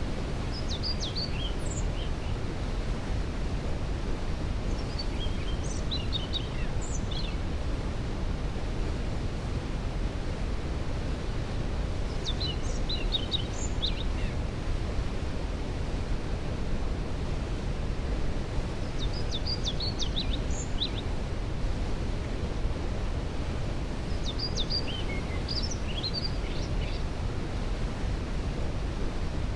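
Steady low roar of a waterfall, with a songbird singing short high phrases about every five to six seconds.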